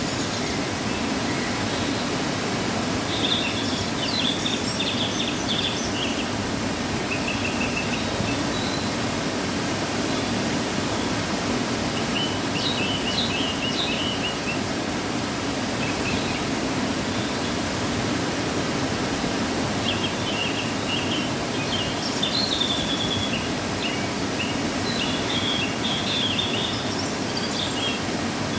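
Steady rushing of a waterfall running after rain, with small birds chirping over it in short bursts several times.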